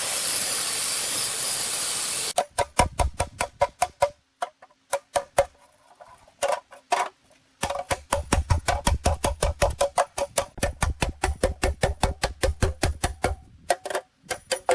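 A steady hiss that cuts off abruptly about two seconds in, followed by rapid, repeated metallic strikes with a ringing tone, several a second, thinning out briefly in the middle before running densely again.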